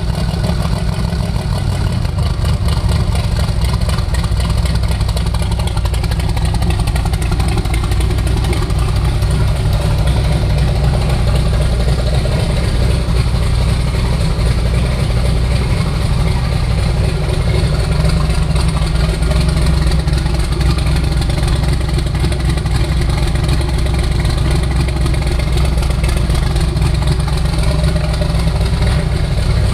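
Twin-turbocharged 440 big-block V8 idling steadily with a deep, even rumble.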